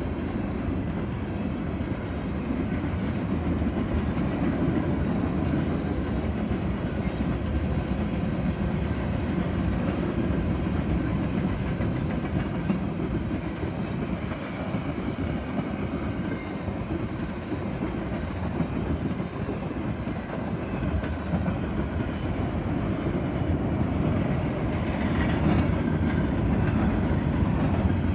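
Canadian Pacific freight train's cars rolling past at trackside, a steady rumble of wheels on the rails, slightly louder near the end.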